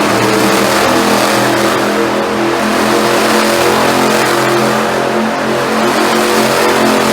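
Monster truck engine running loud and steady in an arena, its pitch wavering slightly.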